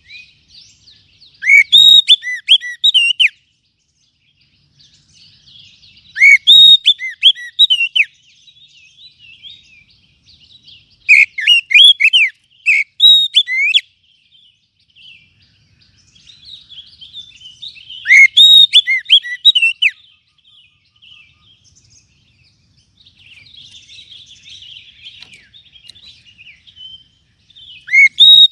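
Oriental magpie-robin (kacer) singing: loud phrases of rich, sweeping whistled notes come every five to seven seconds, with quieter twittering between them.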